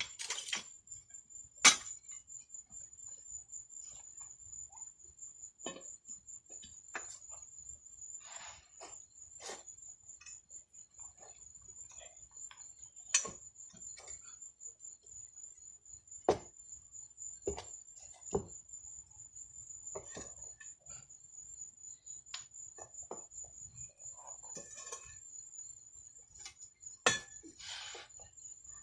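Scattered metal clinks and knocks of a tire bar prying and striking against a wheel rim while working a tire bead by hand. A steady high-pitched tone sounds underneath throughout.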